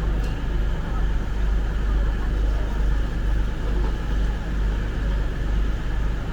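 Railway station platform ambience: a steady, fairly loud low rumble with a faint background hubbub and no single passing train.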